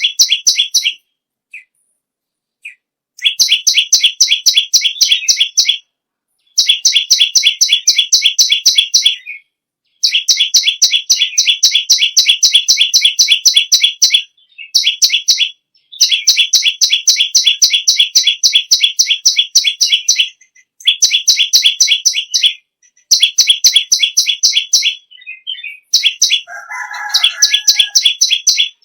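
A perenjak lumut, a small prinia-type songbird, singing in fast, loud trills of rapidly repeated high notes, each run lasting a few seconds with brief pauses between. Near the end, a short lower sliding call sounds once.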